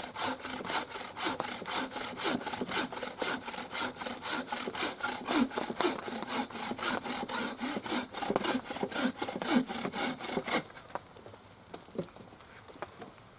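Hand saw cutting through wood in quick, even strokes, about four a second, stopping about ten and a half seconds in; a few faint knocks follow.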